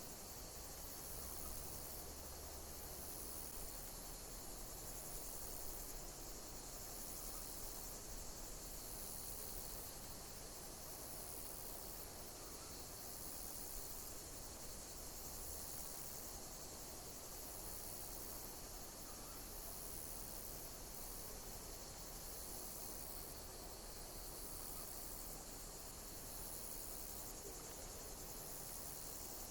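A steady high-pitched chorus of chirping insects, with a pulse that repeats about every two seconds.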